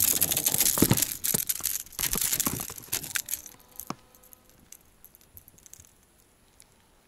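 Rustling, rattling handling noise with many sharp clicks as a lively freshly caught chub is held and unhooked from a wobbler. It lasts about three seconds, then only a few faint clicks follow.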